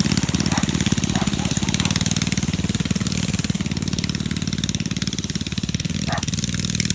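Minibike's small engine running steadily, with a fast, even firing pulse.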